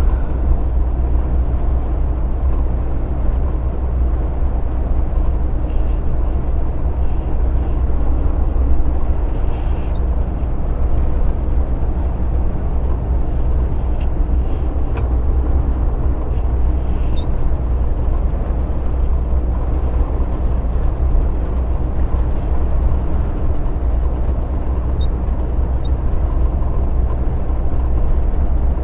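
A heavy truck on the move: its diesel engine and tyre noise make a steady low rumble at cruising speed, heard from inside the cab.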